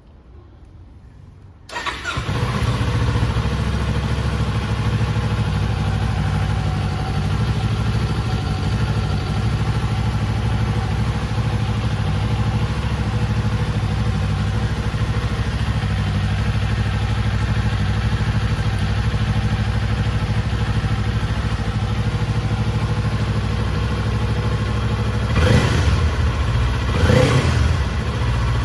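Kawasaki Eliminator 400 SE's parallel-twin engine starting about two seconds in and settling into a steady idle, then two quick blips of the throttle near the end.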